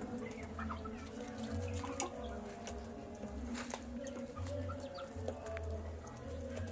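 Chicks pecking at feed: many quick, irregular taps and clicks, with a few faint peeps, over a low steady hum.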